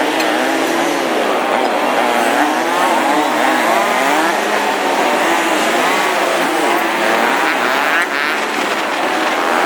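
Motorcycle engine running under changing throttle, its pitch rising and falling over and over.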